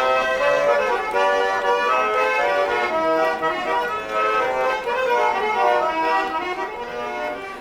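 Garmon (Russian button accordion) playing an instrumental introduction: a melody over held chords, notes changing in quick succession.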